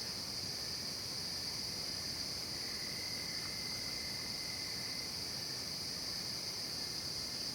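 Night-time chorus of crickets and other insects in a forest, a steady high-pitched trilling that never lets up. A fainter, lower insect tone joins from about two and a half seconds in to five seconds.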